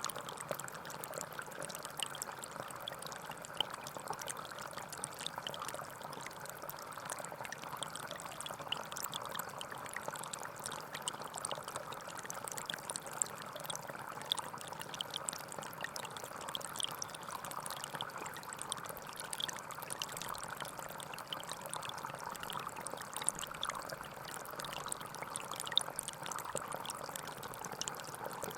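Gentle forest stream flowing and trickling steadily, with many small splashes of water over it.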